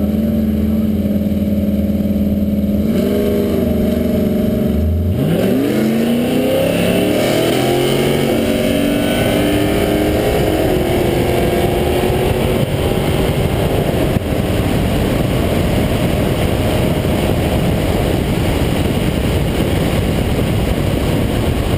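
LS1 V8 drag car idling at the start line, with a short rev about three seconds in. It launches at full throttle near five seconds, and the engine pitch climbs and drops back at each gear change through a quarter-mile pass. From about halfway, loud wind rush at speed covers the engine.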